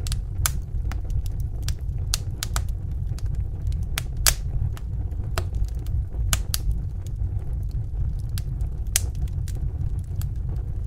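Log fire crackling: irregular sharp snaps and pops, a few louder than the rest, over a steady low rumble of burning.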